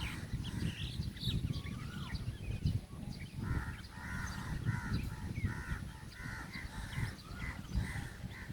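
Birds calling: scattered short chirps, then from about three and a half seconds in a run of a dozen or so harsh, repeated caws.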